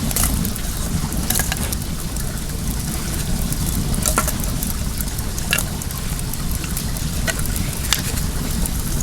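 Wood fire crackling, with scattered sharp pops over the steady rush of flowing well water.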